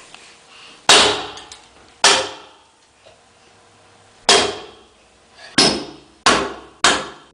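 Hammer striking a wooden cabinet board six times, each blow sharp and ringing out briefly; the blows come closer together near the end.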